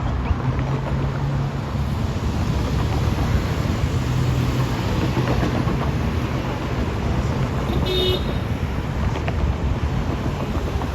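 A heavy transit vehicle running with a steady low hum and rumble. One short, high-pitched toot sounds about eight seconds in.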